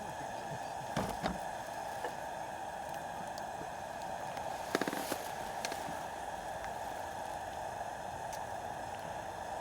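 Wood fire in a fire-pit stand, a few sharp crackles and pops over a steady hiss.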